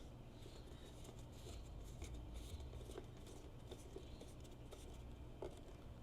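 Faint scattered clicks and light scraping of hand work on motorcycle parts, with a sharper click about three seconds in and another about five and a half seconds in, over a steady low hum.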